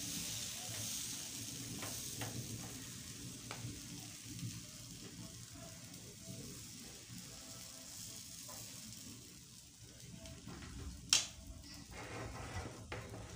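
Akara bean batter sizzling in a frying pan with a little oil, the sizzle slowly fading, with light scrapes and taps of a metal spoon spreading the batter. One sharp clink near the end.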